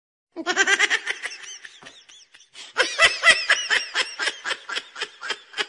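Laughter in quick, rapid pulses with rising and falling pitch, starting just after the start and trailing off, then a second, louder bout of laughter about two and a half seconds in.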